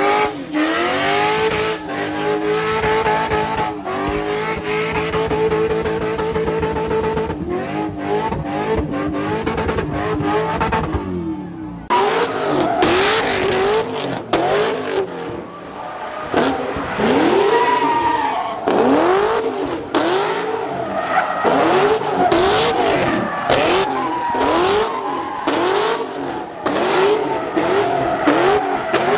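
Car engine revving hard while drifting, with tyres squealing and skidding. For the first ten seconds or so the revs are held high and waver; from about twelve seconds in the throttle is worked up and down in quick repeated rises and falls, roughly one a second.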